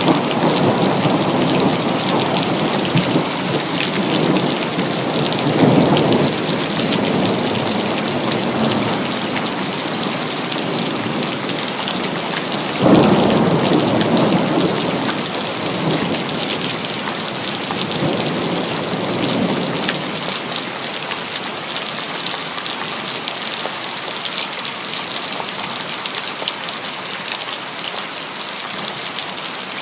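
Steady heavy rain with rumbling thunder: one sharper clap about halfway through, then the thunder dies away and only rain is left for the last part.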